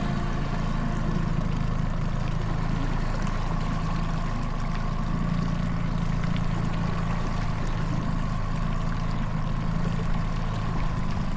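A sailing trimaran's engine running steadily while motoring under way: a low, even drone with a thin steady whine above it, over water noise.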